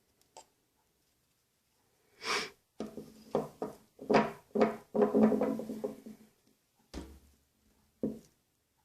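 Small hard parts and tools of a spinning reel being handled on a work surface: a quick run of knocks and clicks over a few seconds, then two single knocks near the end.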